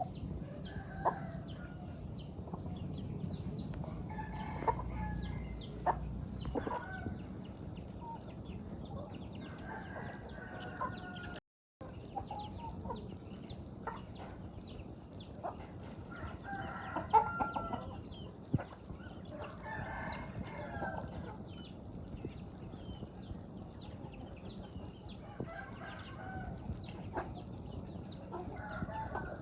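A flock of farm chickens clucking and calling, with a rooster crowing, over a constant patter of short high calls.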